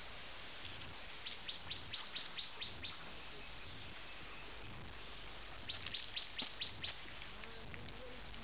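A bird calling in two runs of short, high chirps, about seven or eight to a run at about five a second. The runs come a second and a half in and again near the seventh second, over a steady background hiss.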